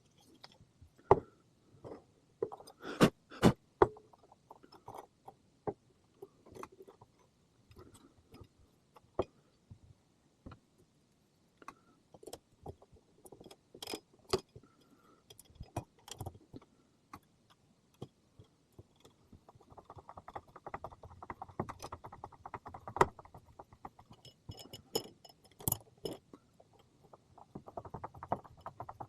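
Pepper mill grinder parts being handled and fitted: scattered sharp clicks and knocks, with a stretch of rapid rattling clicks about two-thirds of the way through.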